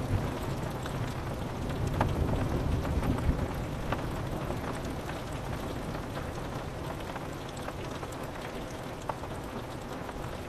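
Steady rain on a window, with scattered drops ticking against the glass. A low thunder rumble dies away over the first few seconds.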